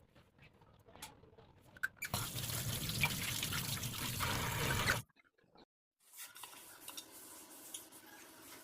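Tap water running into a sink for about three seconds, shut off abruptly; faint small clicks before it.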